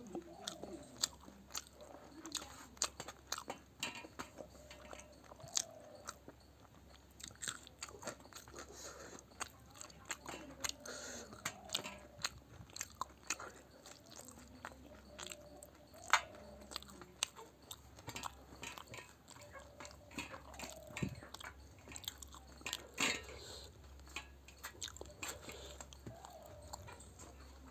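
A person chewing and biting food close to the microphone, with frequent irregular crunches and sharp wet mouth clicks.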